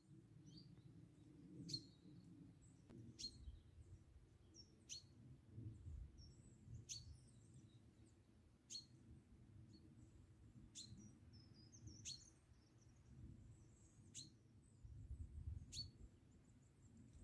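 A songbird repeating a single short, sharply falling high call about every one and a half to two seconds, with fainter twittering from other birds between, over a low rumble.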